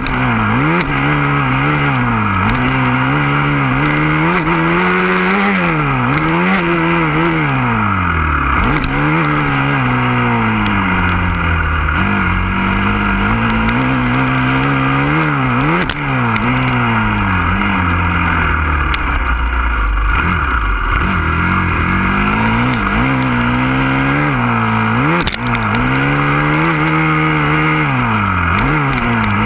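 Husqvarna FC 350 motocross bike's four-stroke single-cylinder engine being ridden hard, its pitch climbing and dropping every two to three seconds with throttle and gear changes. A few sharp knocks come through along the way.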